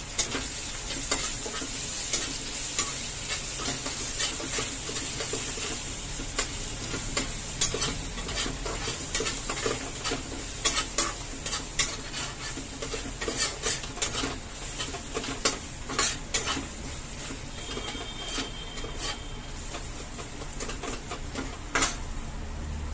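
Onion, spices and grated green mango sizzling in mustard oil in a steel kadai, with a steel spatula scraping and clicking against the pan as the mixture is stirred and fried.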